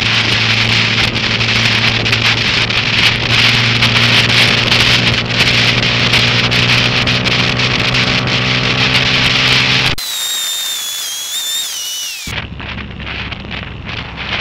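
Honda Grom MSX125's small single-cylinder four-stroke engine running at a steady pitch under heavy wind and rain noise on the microphone. About ten seconds in the sound cuts off abruptly into two seconds of high wavering whistling that falls in pitch, then returns quieter and duller.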